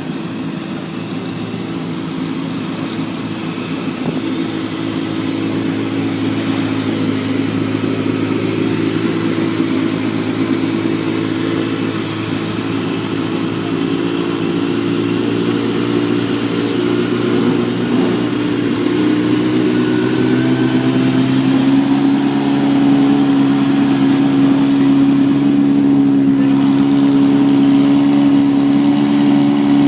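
Classic car engine running at a steady idle, growing slowly louder, its note shifting slightly higher about two-thirds of the way through.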